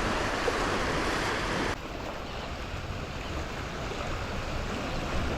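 Small waves washing onto the beach, a steady rush of surf with some wind. About two seconds in, the sound drops abruptly and turns duller.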